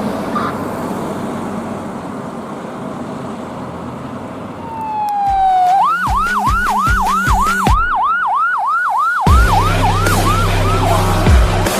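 Fire engine running with engine and road rumble; about four and a half seconds in its electronic siren starts, then yelps in quick rising sweeps about three times a second. About nine seconds in, a loud, low air horn blast comes in over the siren, and near the end the siren swings back into a long rising wail.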